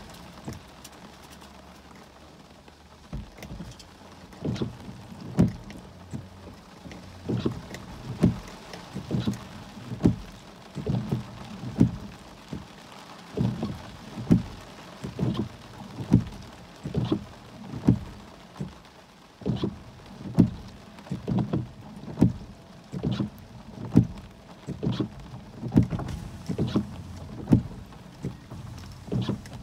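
Heavy rain on a vehicle: dull thuds of large raindrops striking the glass and body come irregularly, about once a second, over a faint steady hiss of rain.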